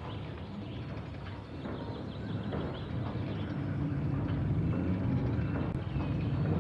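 A motor vehicle's engine running and growing steadily louder as it comes closer, with small birds chirping now and then.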